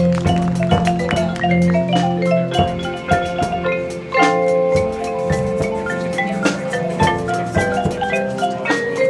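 Marching band performing, with mallet percussion (marimba, xylophone, glockenspiel) playing quick struck notes over held tones from the rest of the ensemble.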